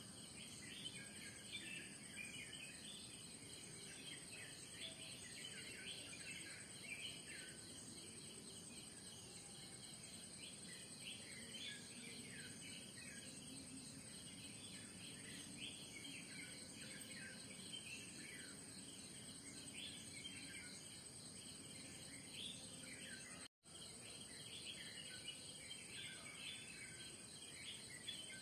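Morning chorus of many small birds giving short, quick chirps over a continuous high-pitched insect drone. The sound cuts out for an instant about 23 seconds in.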